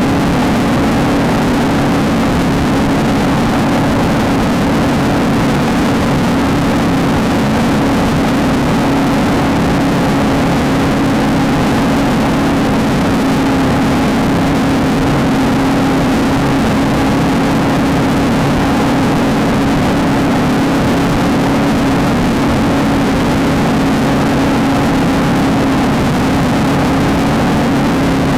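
Off-road race car engine running at a steady, unchanging pitch under a constant rush of noise, with no gear changes or revving.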